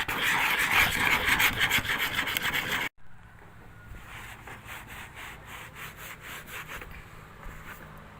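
Hand sanding a hard surface in quick rubbing strokes, roughening it so epoxy will stick to a crack repair. The sanding is loud at first, cuts off abruptly about three seconds in, and carries on as quieter, regular strokes.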